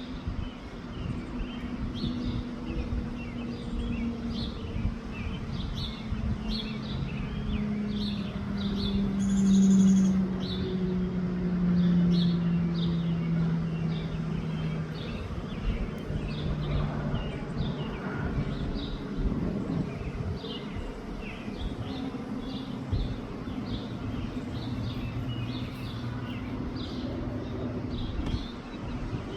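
Birds chirping again and again over a low wind rumble on the microphone. A passing vehicle's engine tone slowly falls in pitch, loudest about ten to twelve seconds in.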